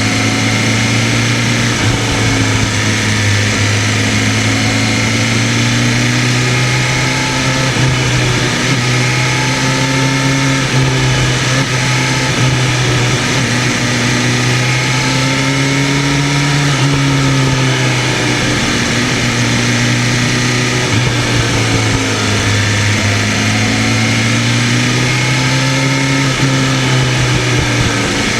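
BMW M1000RR superbike's inline-four engine running at a steady cruise, its pitch rising and falling gently a few times with small throttle changes, over a steady rush of noise.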